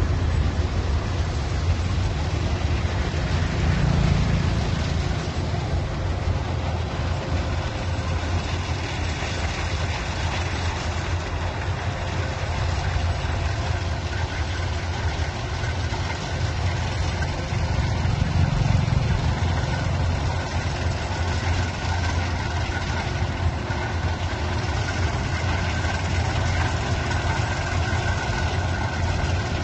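Heavy machine's engine running steadily with a deep, even hum, swelling slightly twice.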